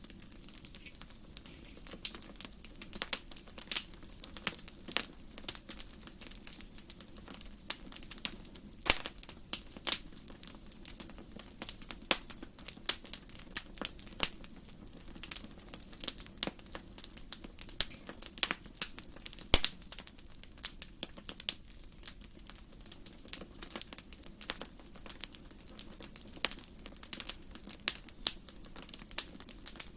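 Wood fire burning in a fireplace, crackling and popping with many irregular sharp snaps over a low steady hiss.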